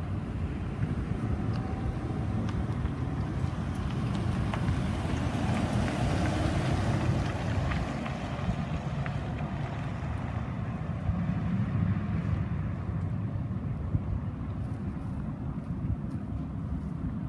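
Fighter jet roar passing over, swelling to a peak about six seconds in and then fading away, with wind buffeting the microphone throughout.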